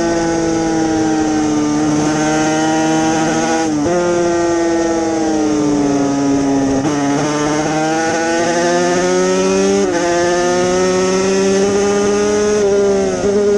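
Yamaha TZ250 two-stroke racing motorcycle engine running hard at high revs, its pitch slowly drifting up and down, broken briefly about four times by gear changes.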